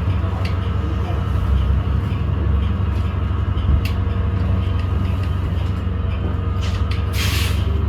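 Interior running noise of a 2017 New Flyer XDE40 diesel-electric hybrid bus under way: a steady low drone with a few light rattles and clicks. A short hiss comes near the end.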